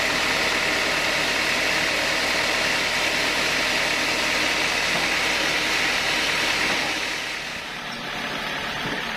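Sawmill saw cutting through an old teak log, a loud steady hissing whine of blade in wood. About three-quarters of the way through the cutting noise falls away, leaving the machine running more quietly.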